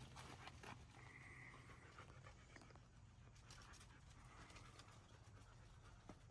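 Near silence: faint room tone with a low hum and a few soft clicks in the first second.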